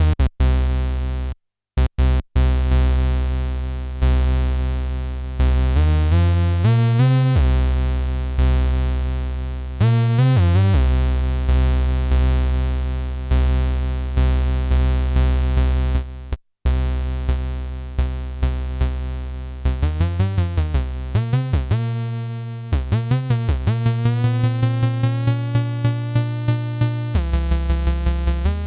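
Behringer K-2 analog monophonic synthesizer (an MS-20 clone) playing dry, without effects: low buzzy notes re-struck rapidly, with several swoops up and down in pitch and a rising sweep in the brighter overtones near the end. The sound cuts out briefly a few times.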